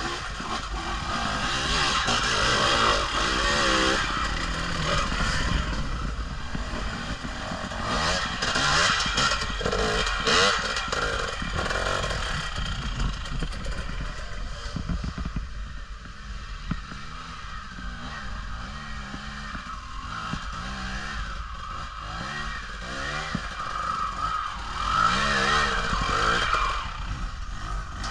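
Riding along a rough trail: low wind buffeting and rattling from the bike, with a dirt bike engine revving up and down at times, most strongly near the start and again near the end.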